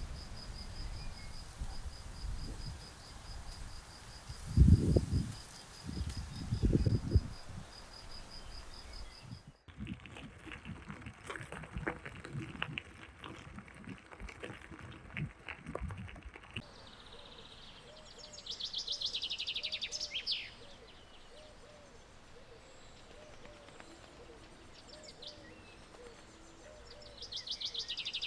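Countryside ambience. For the first third, an insect chirps in a steady high pulse, broken by a few low thuds. After an abrupt change come scattered clicks and knocks, and later a bird gives two fast, falling trilled calls.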